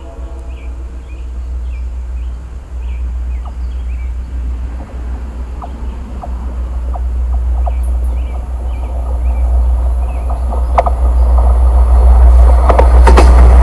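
Approaching freight train: a deep rumble that grows steadily louder, with clicks and rattling of wheels on rail building over the last few seconds as the train reaches the crossing.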